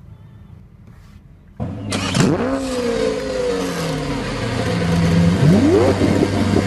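A vehicle engine cuts in abruptly about one and a half seconds in and revs, its pitch rising sharply twice, with loud hiss and noise around it.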